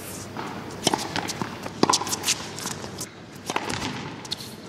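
Padel rally: a string of sharp knocks as rackets strike the ball and it bounces, with players' footsteps on the court.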